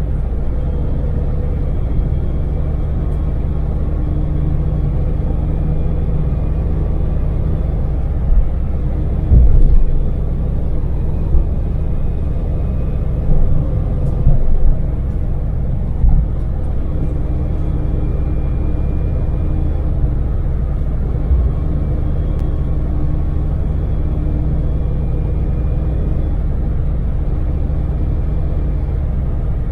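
Daewoo Damas microvan's small three-cylinder LPG engine and road noise heard inside the cabin while cruising: a steady low rumble with faint engine tones. A handful of short thumps come between about a third and halfway through.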